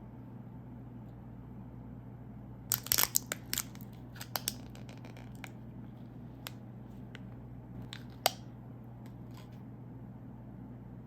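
Snack wrapper being torn open and crinkled: a quick cluster of sharp crackles about three seconds in, then a few scattered single crackles.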